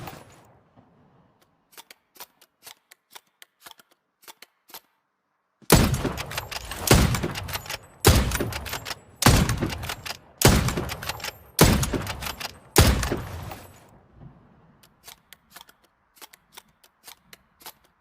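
Rifle gunshot sound effect: the tail of a shot dies away, then a run of light mechanical clicks, then seven shots about a second apart, each with a reverberant tail. More light clicks follow near the end.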